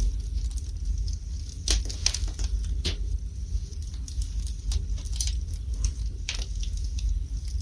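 Wood fire burning in a fireplace, crackling with irregular sharp pops over a low steady rumble; the loudest pops come about two seconds in, near three seconds and past six seconds.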